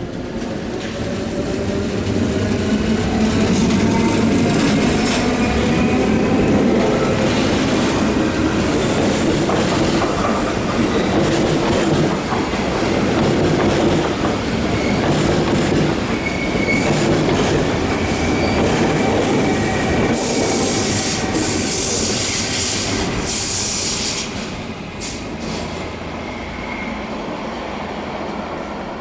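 Südostbahn passenger train running past and away into a curved tunnel: steady rolling rumble and clattering wheels, with a high wheel squeal on the curve in the second half, fading down after about 24 seconds as the train goes into the tunnel.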